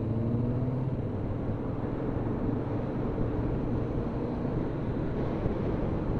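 Motorcycle engine pulling up through the revs briefly at the start, then running steadily at road speed, under a constant rush of wind and road noise.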